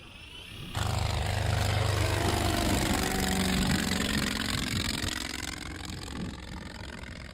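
Dubbed engine sound of the full-size Spirit SE1: a loud rushing engine noise with shifting pitch that cuts in suddenly about a second in, then slowly fades.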